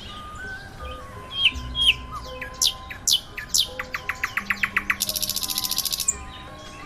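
Several forest birds chirping and calling over one another, with quick high downward-sliding chirps, a fast clicking trill about four seconds in, and a dense buzzing trill just after it. Soft sustained tones hold underneath.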